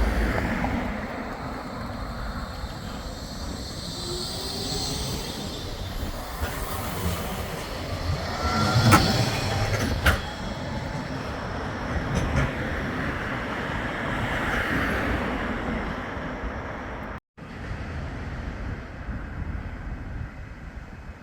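Bombardier Flexity 2 tram running on the rails, with two sharp clacks about nine and ten seconds in. The sound cuts out for a moment about seventeen seconds in.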